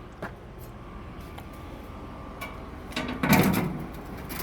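Metal grill grates being set back into a propane grill: a few light clicks, then a louder scraping clatter about three seconds in.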